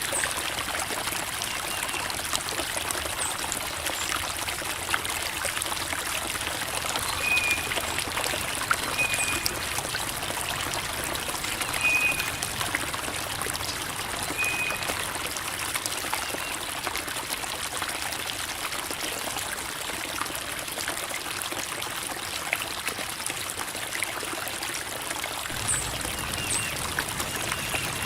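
Creek water running and trickling over rocks: a steady babbling that holds evenly throughout. A few faint, short high chirps come in the first half.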